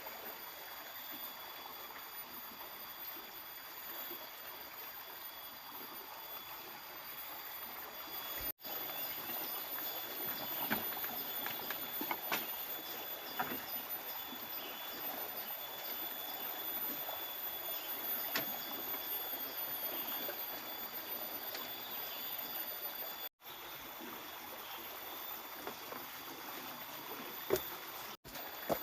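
River water running steadily, with several steady high-pitched tones over it and scattered light knocks. The sound breaks off briefly three times.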